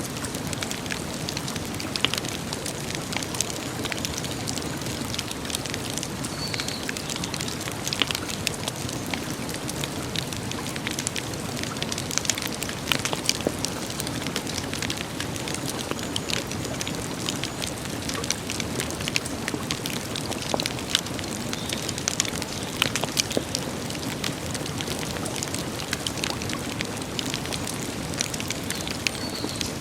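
Wood campfire crackling, with frequent sharp snaps and pops at irregular intervals over a steady low rush.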